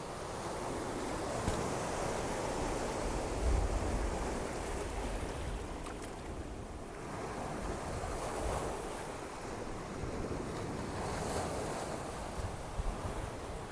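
Ocean surf washing onto a beach: a steady rush of waves that swells and eases. Wind buffets the microphone with a low rumble a few seconds in.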